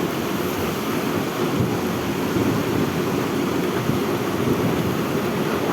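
Wind and rain in a thunderstorm: a steady, deep rushing noise with wind buffeting the microphone.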